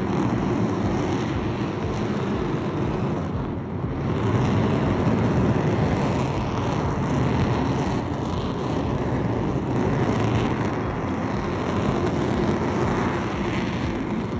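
Dukono volcano erupting: a steady, deep, jet-like roar with no distinct blasts.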